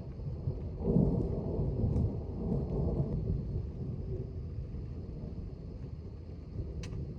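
Rolling thunder from an approaching thunderstorm: a low rumble swells about a second in and fades away over the next few seconds. A short click comes near the end.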